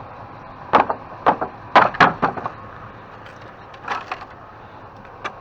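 Old nailed-on wooden top being wrenched off a furniture frame. A rapid cluster of sharp wood cracks and creaks comes in the first couple of seconds, a few more near the middle, and a single snap near the end.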